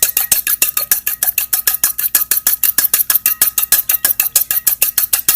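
Egg being beaten fast in a bowl: a utensil clicking against the bowl in a rapid, even rhythm, about eight strokes a second.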